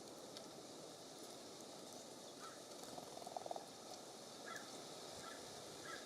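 Birds at a feeder giving several short calls, with one short rasping call about three seconds in that is the loudest sound, over a steady breeze.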